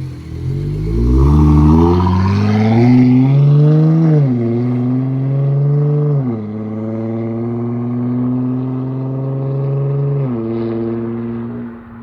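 Dodge Charger GT's straight-piped 3.6-litre V6 exhaust, run through Super 10 mufflers, under hard acceleration: the revs climb, drop at an upshift about four seconds in, climb again and drop at a second shift about six seconds in, then the engine holds steady before the revs fall near the end.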